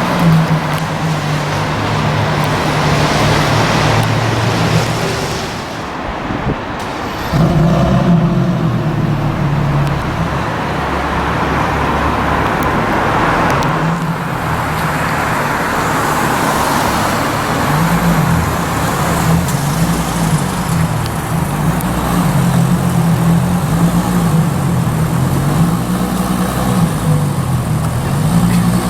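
Ferrari LaFerrari's V12 engine running at low revs amid road traffic noise, its pitch rising and falling repeatedly in the second half. The sound drops off briefly about six seconds in.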